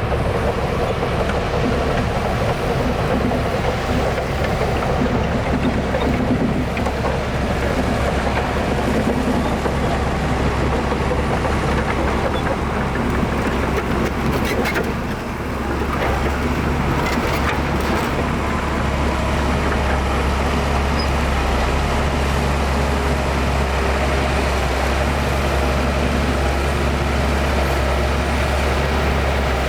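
Heavy diesel engine of earthmoving machinery running steadily under load, with a deep low hum. The level dips briefly about halfway through, then the engine carries on.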